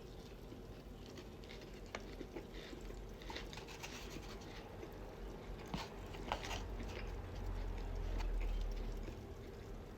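Close-miked chewing with scattered wet lip smacks and small clicks as a carne asada taco is eaten. A low rumble swells and fades between about seven and nine seconds in.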